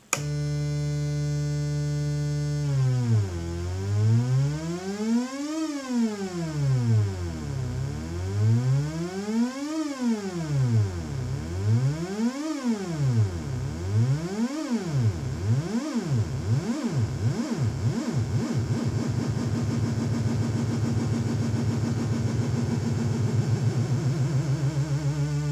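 Future Sound Systems Brunswick synthesizer's oscillator holding a steady low tone, then swept down and up in pitch by its LFO (frequency modulation). The sweeps start slow, a few seconds each, and come faster and faster until they blur into a rapid warble, which eases back towards a steady tone near the end.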